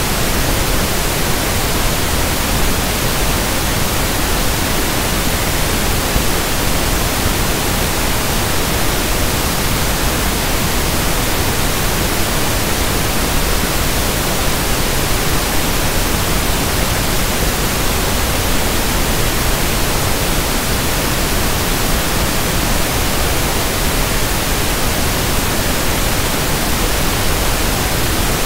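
Synthetic pink noise (1/f noise): a steady, even hiss spread across the whole range of pitch, with no change.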